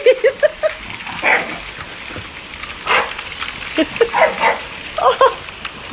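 A dog barking and yipping: a quick run of short high yips at the start, then separate barks every second or so.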